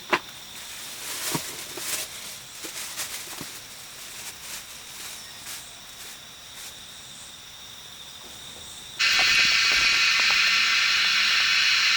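Soft rustling and scattered clicks, like steps through undergrowth, over a faint steady insect tone. About nine seconds in, a loud steady hissing buzz starts abruptly and keeps going.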